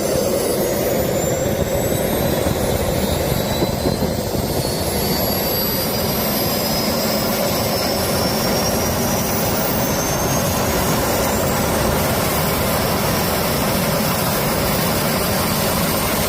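Jet engine running: a loud, steady rushing noise under a high turbine whine that climbs slowly in pitch. It is being test-run to see whether it survived a suspected crash that bent its bracket and sheared a bolt out of its housing.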